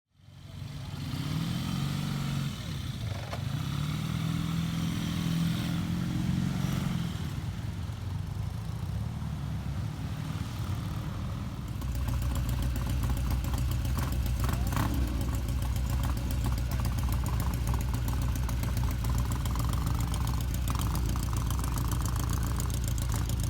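Motorcycle engine running, its pitch rising and falling for the first half. About halfway through the sound changes abruptly to a steady idle with an even, rapid pulse.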